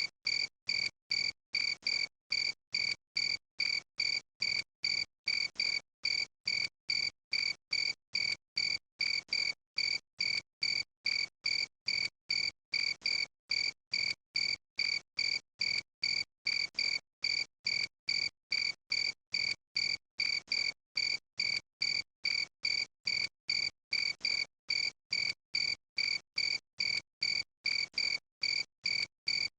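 Cricket chirping in a steady, even rhythm, a little over two high, clear chirps a second, with complete silence between chirps.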